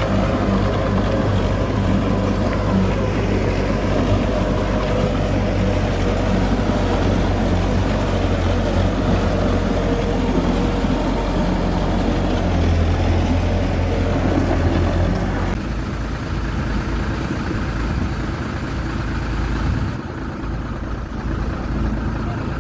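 Heavy diesel engine of earthmoving machinery running steadily. It works harder for a few seconds past the middle, then drops back and goes quieter about two-thirds of the way through.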